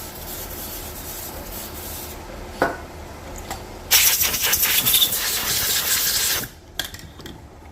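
Aerosol spray can hissing in two bursts: a softer spray for the first two seconds, then a louder one lasting about two and a half seconds from about four seconds in, with a single sharp click between them.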